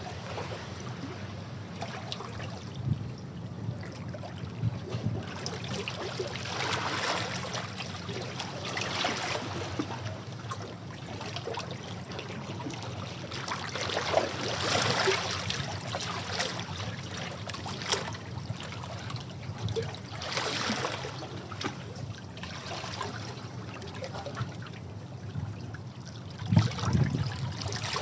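Sea waves washing over rocks: surges that swell every few seconds and fall back into trickling and splashing water among the stones.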